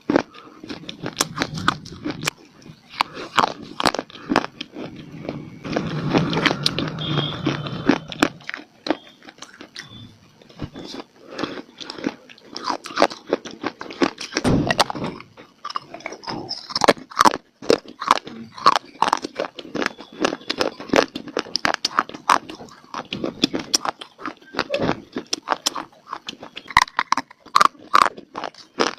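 A person biting and chewing crunchy dry clay (mitti), with many irregular sharp crunches and cracks. About six to eight seconds in there is a denser stretch of grinding.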